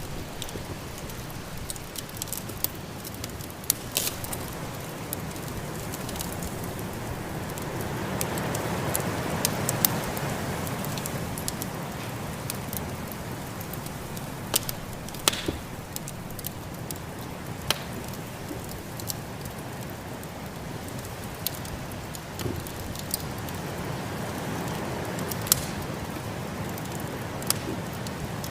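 Wood fire crackling with frequent sharp pops, over a steady rush of snowstorm wind that swells about a third of the way in and again near the end.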